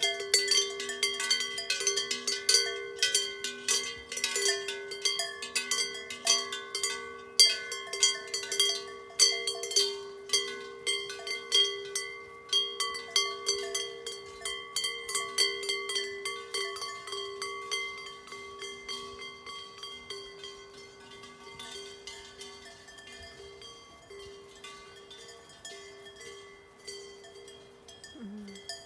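Many cowbells on grazing cows clanging irregularly in a dense, overlapping ringing. The clanging thins out and grows quieter over the second half.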